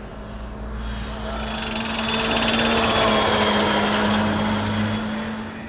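Modified Daihatsu Copen L880K (rated 200 ps) engine at full throttle as the car comes out of the corner and passes at speed on the straight. It grows louder from about a second in, is loudest around the middle, then fades as the car pulls away.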